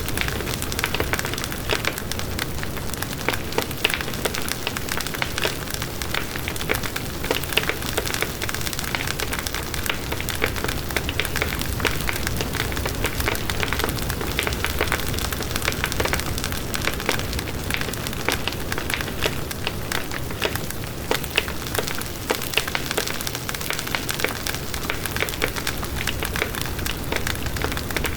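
Campfire burning steadily with dense, continuous crackling: many small sharp pops over a constant hiss.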